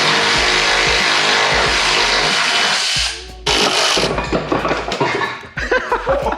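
A power tool running in two long bursts, the second about half a second after the first stops, working on the car's metal.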